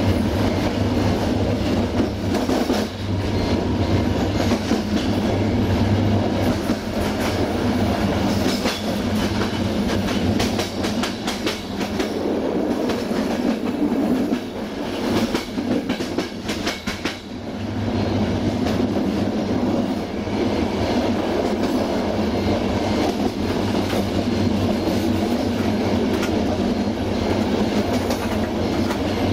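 Passenger train rolling along at speed, heard from its rear: a steady rumble of wheels on rails with the clickety-clack of rail joints, the clicks thickest around the middle.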